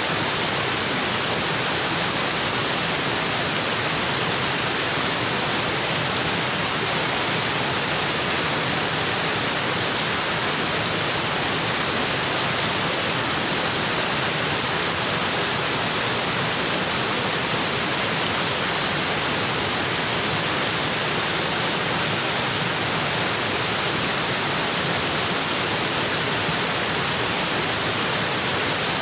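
Waterfall: water pouring steadily onto rocks, an even, unbroken rush.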